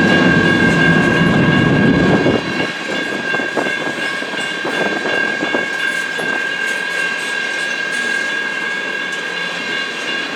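Freight train cars rolling past on the rails with a heavy rumble that drops off abruptly about two and a half seconds in as the last cars clear, leaving faint wheel clicks. A steady high-pitched ringing tone carries on throughout.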